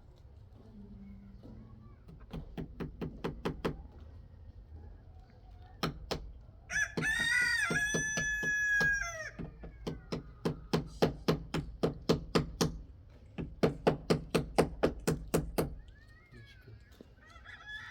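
A rooster crows once, a long call about seven seconds in. Before and after it come several runs of quick, evenly spaced sharp knocks, several a second, with a shorter falling call near the end.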